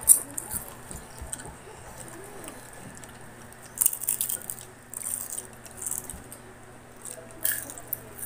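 Crunching and chewing of a crisp fried cheese stick close to a clip-on microphone: a sharp crunch right at the start, spells of crisp crunching about four and five seconds in, and another crunch near the end.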